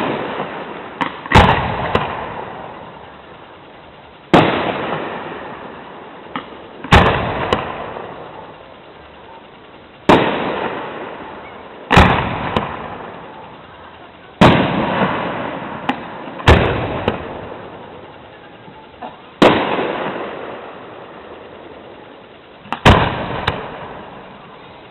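Aerial firework shells bursting one after another: about nine loud bangs, two to three seconds apart, each trailing off over a second or two, with a few smaller pops between them.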